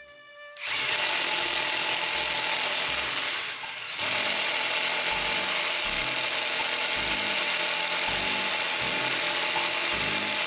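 Cordless impact driver running at speed, a loud steady whir with a whine, starting just under a second in. It eases off briefly around three and a half seconds, then runs on at full speed.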